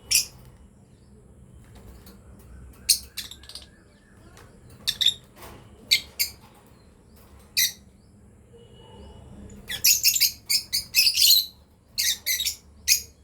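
Lovebirds chirping: short, sharp, high-pitched chirps, scattered at first, then a rapid flurry of them about ten seconds in.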